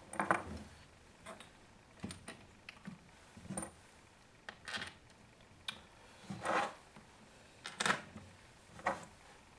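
Scattered light clicks, taps and brief scraping of small chainsaw parts being handled and pressed into place by hand, about one every second.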